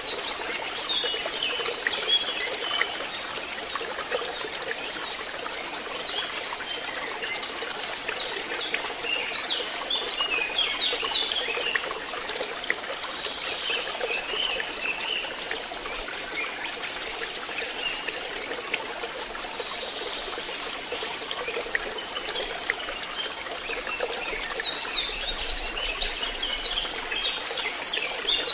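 Water trickling into a fishpond, steady throughout, with brighter bursts of splashing or twittering every few seconds.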